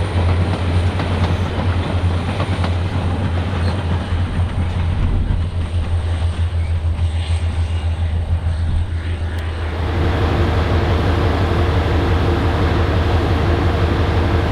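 Diesel locomotives of a passing train running with a heavy, steady low rumble. About ten seconds in, the sound changes abruptly to the steadier note of a single Santa Fe FP45 diesel locomotive running at a standstill, with several held tones.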